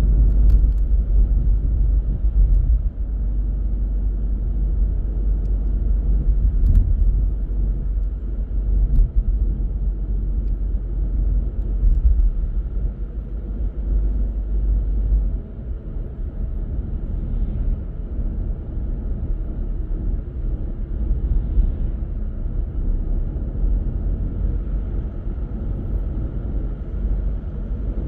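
A car driving along: steady low rumble of engine and road noise, easing slightly about halfway through.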